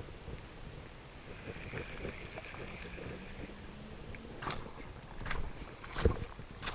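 A few sharp knocks over a steady outdoor background hiss, from about four and a half seconds in, the one near six seconds the loudest.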